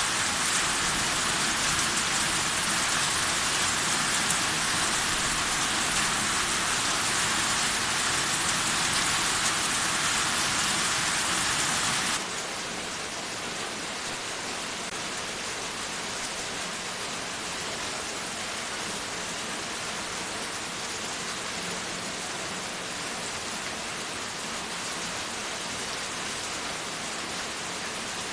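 Steady rain falling, an even hiss with no thunder or single drops standing out. About twelve seconds in it drops suddenly to a quieter, lighter rain with less of its low rumble.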